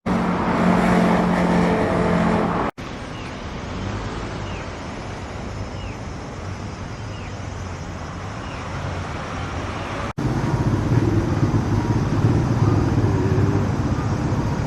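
A vehicle engine running steadily, cut off abruptly twice and picking up again, quieter in the middle stretch.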